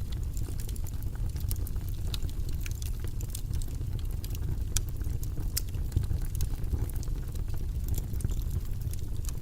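Steady white-noise background with a low rumble, with light, irregular clicks and taps from desk work several times a second.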